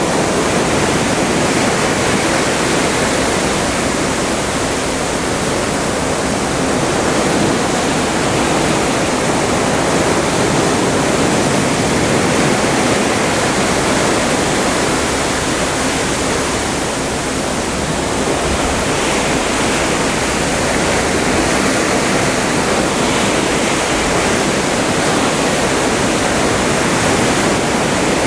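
Atlantic sea water rushing along the hull of a cruise ship under way: a steady rush that swells and eases slightly in loudness.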